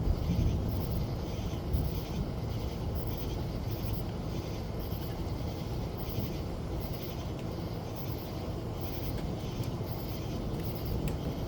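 Steady rain with a low rumble of thunder, the rumble strongest in the first couple of seconds.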